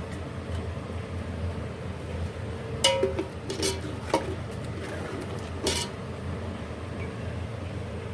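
Metal spoon knocking against a cooking pot several times, each clink ringing briefly, over a steady low hum.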